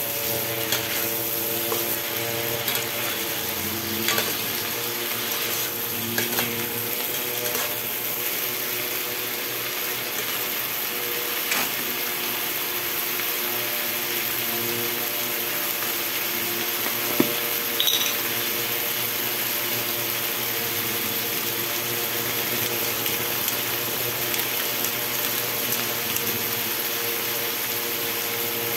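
Shrimp and garlic sizzling in a stainless steel pan over a steady electric hum of several tones, like a small fan motor, with a few light clicks, the sharpest about 17 seconds in.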